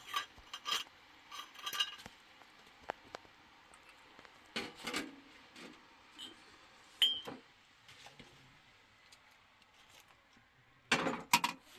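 Scattered clinks and scrapes of utensils against dishes, with one short ringing clink about seven seconds in.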